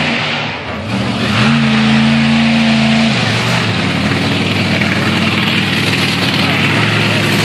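Monster truck engine revving: the pitch climbs about a second in, holds high for a couple of seconds, then drops back about three seconds in and runs on at a steady, rougher note.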